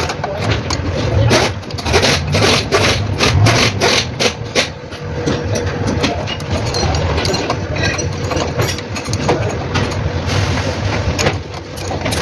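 Mitsubishi Pajero 4M40 diesel engine running with a steady low hum, under frequent sharp, irregular clicks and knocks; the engine has a knocking problem.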